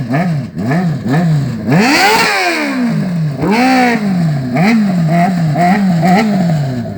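Motorcycle engine sound revved in quick repeated blips, about two a second, each rising and falling in pitch, with two longer, higher swells about two and three and a half seconds in.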